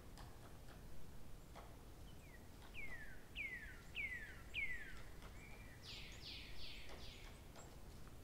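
A bird singing faintly: four clear whistled notes, each sliding down in pitch, then a quicker run of four higher, rougher falling notes, over scattered faint clicks and a low hiss.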